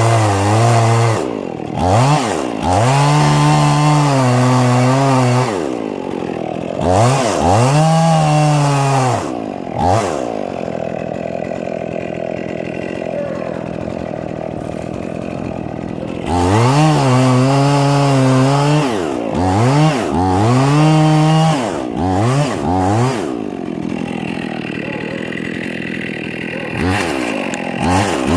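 Husqvarna 55 Rancher two-stroke chainsaw revved up to a high, steady pitch several times, each time for a few seconds, and falling back to idle in between, with two longer idle stretches.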